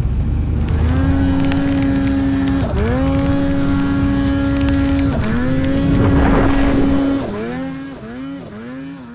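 Two-stroke snowmobile engine running at high revs with a steady tone. Its pitch dips and climbs back twice, then wavers in several quick dips near the end as the sound fades away.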